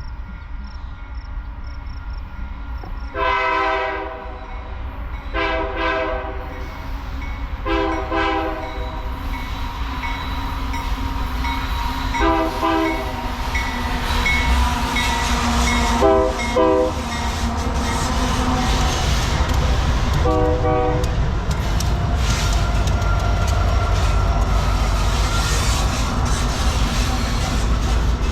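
Diesel freight locomotive's horn sounding six blasts as the train approaches and passes. Under the horn, the deep rumble of the locomotive and the clatter of wheels grow steadily louder, and the rolling train fills the second half.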